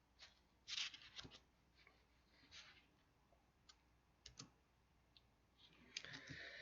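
Near silence: room tone with a few faint, short clicks and soft noises scattered through it.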